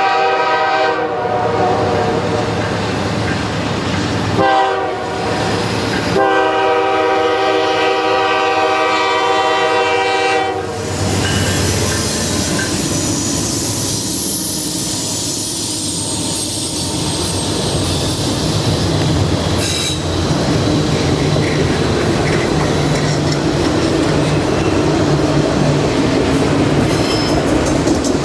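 Locomotive air horn sounding a multi-note chord: a blast ending about a second in, a short one around four and a half seconds, and a long one until about eleven seconds. The train then rolls past with steady wheel noise on the rails and a thin, high wheel squeal.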